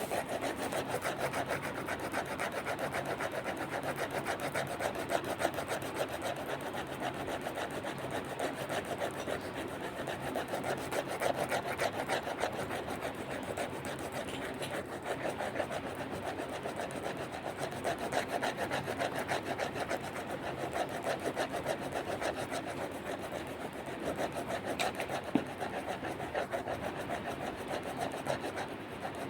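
A drawing tool scratching on paper in rapid back-and-forth strokes, like scribbling or shading, that keep up without a break.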